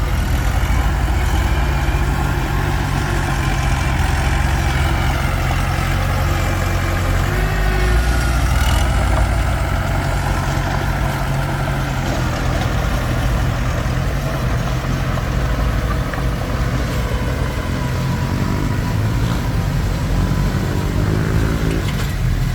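Komatsu D21P bulldozer's diesel engine running steadily at work, its pitch drifting up and down slightly as the load changes.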